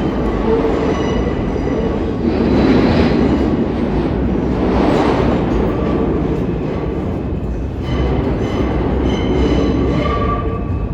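New York City subway train running on the rails: a loud, steady rumble with faint thin squeals that come and go.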